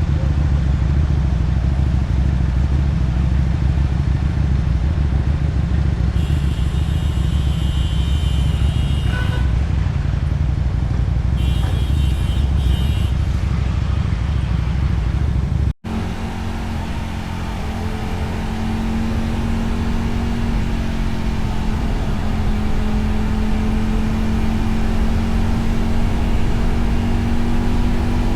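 Motorcycle engine and exhaust heard while riding, with heavy low rumble from engine and wind. About halfway through the sound cuts off sharply and resumes as a steady engine note that slowly grows louder.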